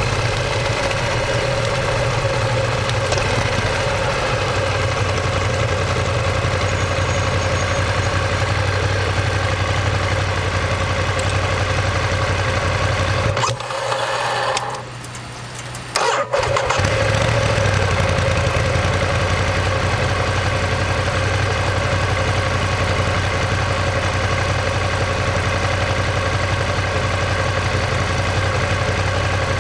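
Ducati Monster 1200S's L-twin engine idling steadily. About halfway through, the engine stops and a starter turns over for a couple of seconds. It then fires, picks up briefly and settles back to a steady idle.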